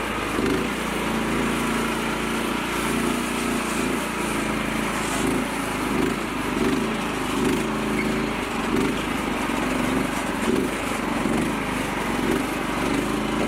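Small tractor engine running steadily, its pitch wavering slightly.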